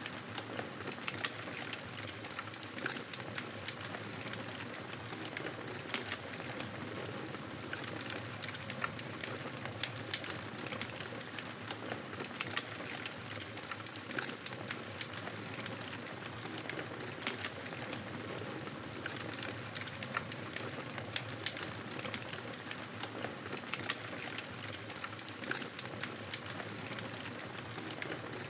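Fireplace wood fire crackling: a steady hiss of flames with frequent small pops and snaps throughout.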